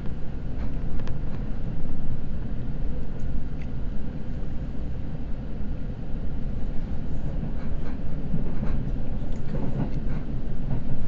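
Red Arrow limited express train running at speed, heard from inside the carriage: a steady low rumble with faint, scattered clicks from the wheels and track.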